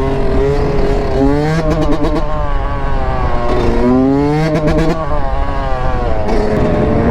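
Dirt bike engine running and revving up twice, its pitch rising about a second in and again about halfway through.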